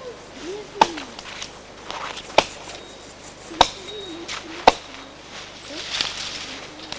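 Four sharp knocking blows, spaced irregularly a second or so apart.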